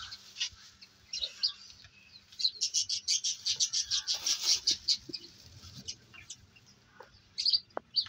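Small birds chirping in quick runs of short, high-pitched notes, densest in the middle and with a short burst near the end.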